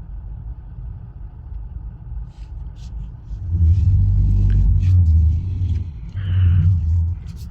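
Low vehicle engine rumble in slow traffic, swelling loudly twice, about halfway through and again near the end.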